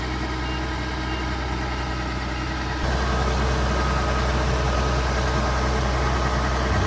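Kubota DC70pro combine harvester running steadily, its engine hum mixed with machinery noise; it steps up louder, with more high hiss, about three seconds in.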